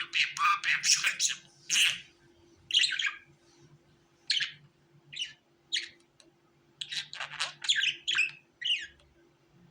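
Budgerigar chirping and squawking: a quick run of chirps, then single chirps about a second apart, then another quick run near the end.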